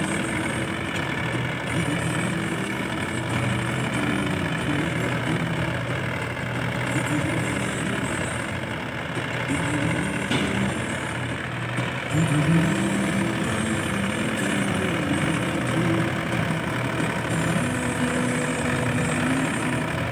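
Mahindra Yuvo 575 DI tractor's 45 hp diesel engine running steadily while working a cultivator, its engine speed shifting slightly a couple of times along the way.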